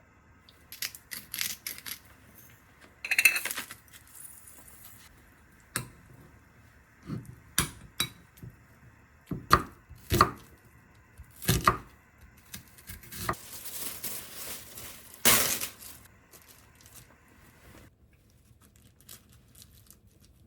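Dishes and utensils being handled in a kitchen: irregular clinks and knocks of tableware, with a longer stretch of scraping or rustling about two-thirds of the way in.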